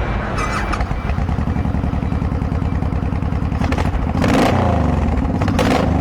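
A 2005 Honda VTX 1800 F3's liquid-cooled V-twin with an aftermarket exhaust, idling steadily and then revved up and back down about four seconds in. The engine is still a little cold, just started.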